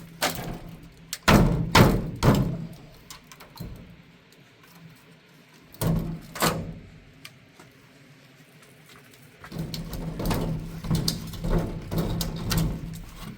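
Irregular knocks and thuds, loudest in a cluster about a second or two in, then a pair of knocks near the middle and another run of knocks near the end.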